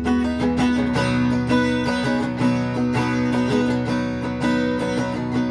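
Guitar strummed in a steady rhythm, an instrumental break between sung verses of a song.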